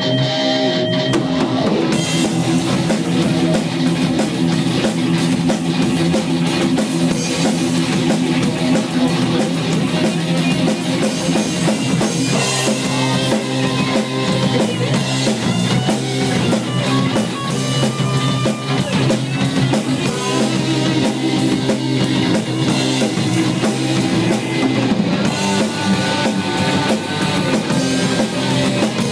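Heavy metal band playing: distorted electric guitar riffing with bass, and a full drum kit with cymbals coming in about two seconds in.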